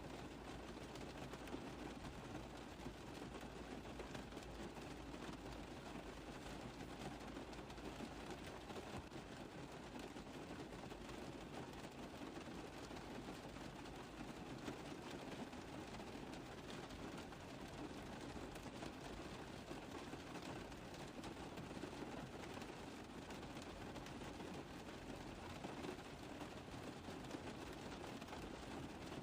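Steady rain pattering on a car roof: a dense, even patter of drops with no let-up.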